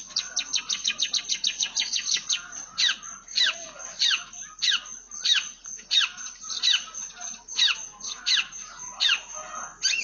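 Long-tailed shrike (cendet) singing a song full of mimicked tree sparrow chirps. It opens with a fast run of short chirps for about two seconds, then settles into a slower series of sharp falling notes, about one and a half a second.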